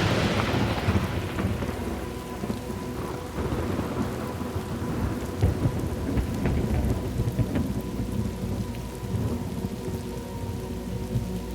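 A thunderclap breaks right at the start and rumbles away over several seconds, over steady rain.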